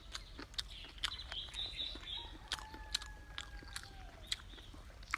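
Close-up chewing of crunchy stir-fried diced radish: a run of crisp, irregular crunching clicks with the mouth working.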